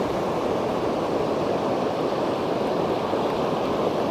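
Steady rushing of the Kern River flowing over rocks: fast, churning water.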